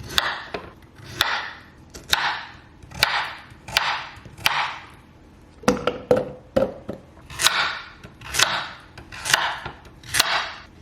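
Knife chopping peeled carrots on a cutting board, about a dozen slow, even strokes, roughly one a second, each a sharp knock with a short crunch.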